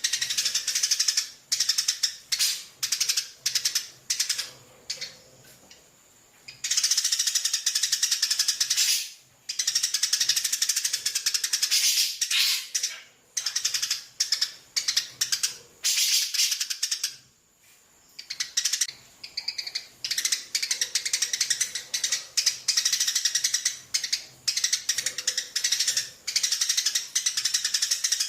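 Parrot chick making rapid pulsed food-begging calls while being fed. The calls come in bouts of a few seconds with short pauses between them.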